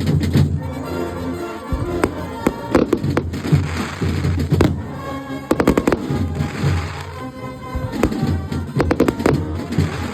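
Carnival band music mixed with repeated sharp firework bangs. Bursts of crackle come about four seconds in and again near the middle.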